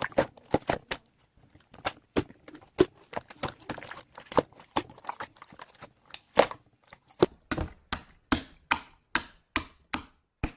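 A series of sharp clicks or taps, irregular at first, then settling into an even run of about three to four a second, with a last single tap near the end.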